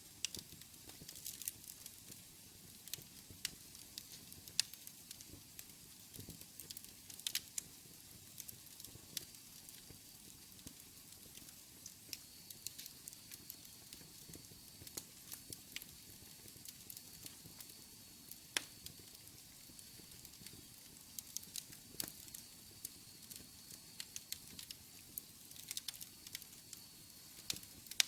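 Wood fire burning in a fireplace: a soft steady hiss with frequent sharp, irregular crackles and pops.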